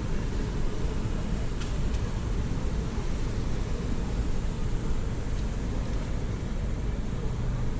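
Storm outdoors: a steady rush of wind and rain, heavy in the low end.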